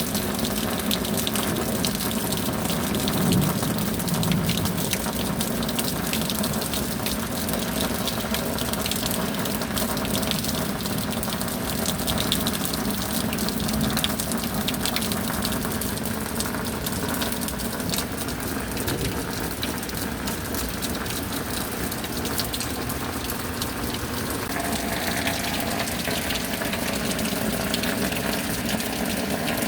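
Steady rain, the fine patter of many drops over a continuous rush of running, gushing water.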